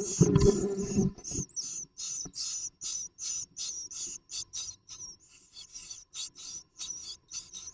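Great tits inside their nest box: about a second of low bumping and rustling, then a rapid series of short, high rasping sounds at about four a second.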